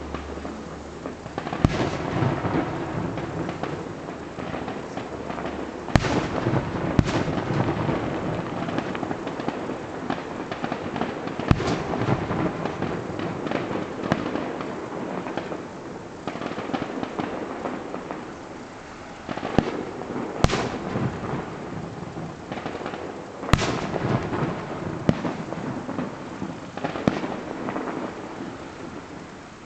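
Aerial fireworks bursting in a string of sharp bangs, each trailed by a long rolling echo off nearby hills, over a continuous rumble and crackle.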